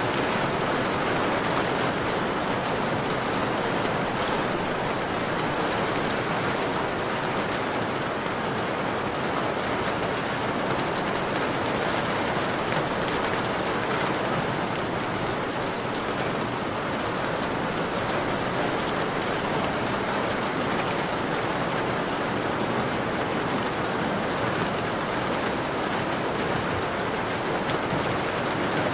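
Steady rain falling on a window: an even hiss with scattered faint drop ticks.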